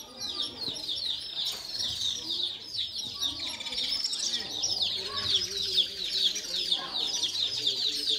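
Small birds chirping continuously: a dense run of short, high chirps, several a second.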